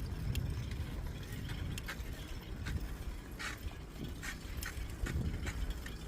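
Bicycle being ridden: irregular clicks and rattles from the bike over a steady low rumble.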